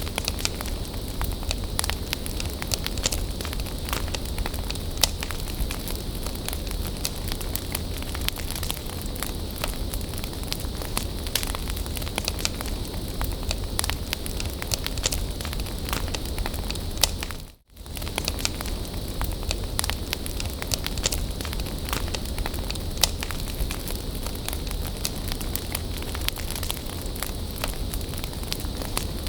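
Bonfire burning, with a steady hiss and a constant scatter of sharp crackles and pops. The sound drops out for an instant a little past halfway through.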